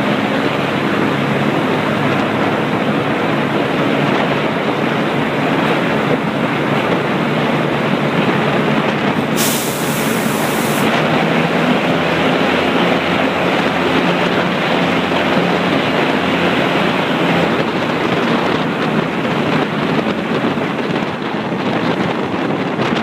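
Wind rushing over the microphone held out of the window of a moving passenger train, over the steady running noise of the train with a low hum beneath. A brief hiss cuts in about ten seconds in.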